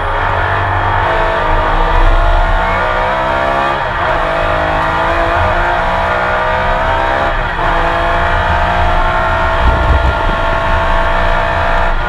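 Porsche 911 RSR flat-six racing engine accelerating hard, heard from inside the car: the pitch climbs, drops sharply with an upshift about four seconds in and again about seven and a half seconds in, then climbs again.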